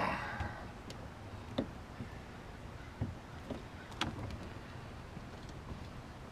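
A few scattered knocks and clicks of gear being handled: a louder knock fading at the very start, then three or four sharp light clicks a second or so apart, over a low steady background.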